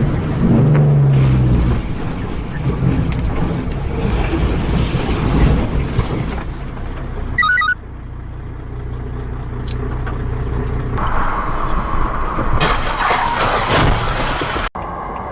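Vehicle engine and road noise from dashcam clips, in several segments that cut off abruptly and change character from one to the next.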